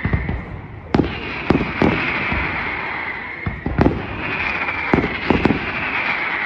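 Daylight fireworks display: about seven sharp bangs from exploding shells, some in quick pairs, over a continuous hiss that slowly falls in pitch and starts again twice.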